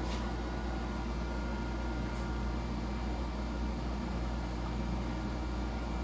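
Steady, even mechanical hum of machinery in an engine dyno cell, low-pitched, with no change in pitch or level.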